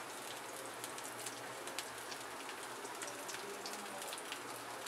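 Potato tikkis shallow-frying in a little oil on a tawa over a low flame: a steady sizzle with many small crackles and pops.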